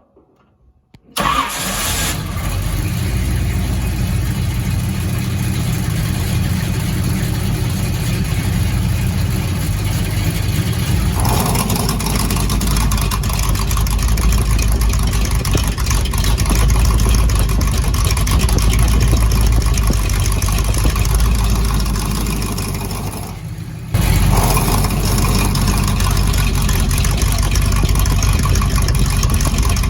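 Big-block Chevy 454 V8 breathing through a stainless exhaust with Flowmaster 40 Series mufflers, starting up about a second in and then running steadily at idle. Near the end it dips briefly and then comes back suddenly louder.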